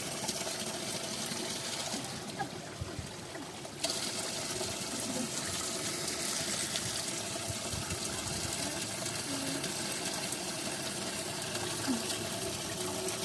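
Mountain spring water running steadily, a constant rush, with its high hiss dulled for a moment about two seconds in.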